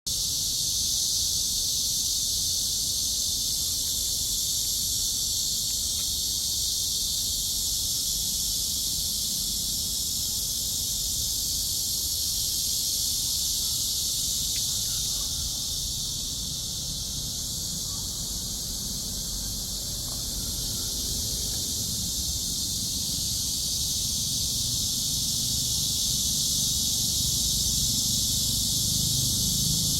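Cicadas buzzing in a steady, high-pitched chorus that does not let up, with a low rumble underneath.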